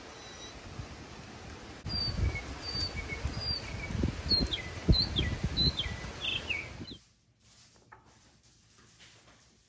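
A bird calling in a run of short chirps, several of them sliding down in pitch, over the rustle of leafy plant stems being handled. About seven seconds in it all gives way to quiet room tone.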